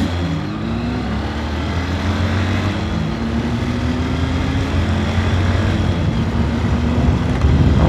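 A vehicle engine running steadily at low revs in traffic, its pitch dipping briefly at first. The sound grows louder shortly before the end.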